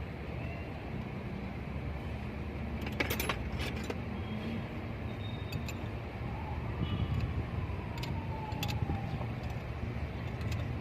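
Metal clinks and clicks of tools and nuts as a check valve assembly is bolted onto a diesel injection pump: a quick cluster about three seconds in, then a few single clicks, over a steady low rumble. A faint falling whine passes near the middle.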